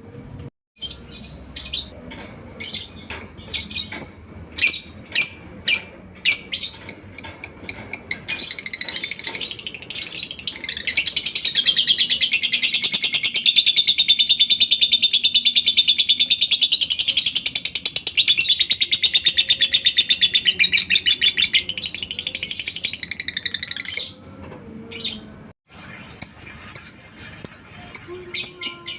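Lovebird calling: a string of separate sharp high chirps, then from about eleven seconds in a long, unbroken, rapid high chatter lasting some twelve seconds, the drawn-out 'ngekek' trill. It returns to single chirps near the end.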